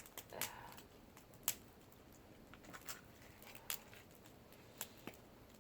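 Wood fire crackling faintly, with scattered, irregular sharp pops.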